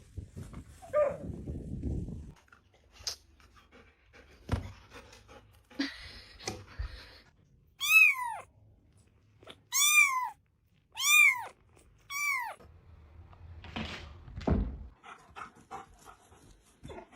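A pet animal giving four high cries, each rising then falling in pitch, about a second apart, with scattered knocks and a couple of thuds around them.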